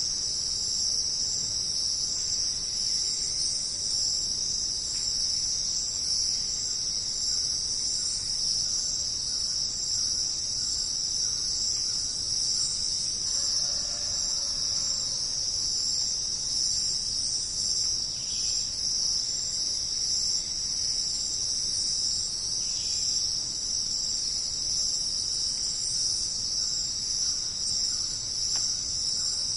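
Dense, steady, high-pitched chorus of jungle insects, unbroken throughout.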